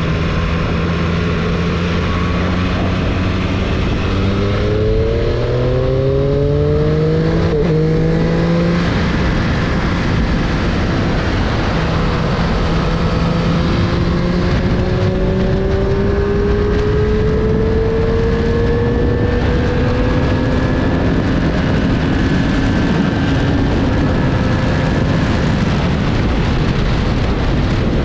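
2022 Triumph Street Triple 765 RS motorcycle's 765 cc inline three-cylinder engine under way. The revs climb quickly several times through gear changes between about four and nine seconds in, then pull up in one long, slower climb from about fourteen to twenty seconds.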